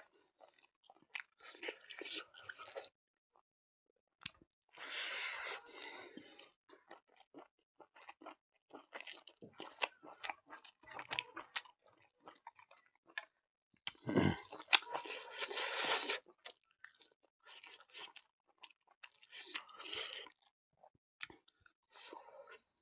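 A person chewing and biting food close to the microphone, in bursts of one to two seconds with short pauses between. The loudest bite comes a little past the middle.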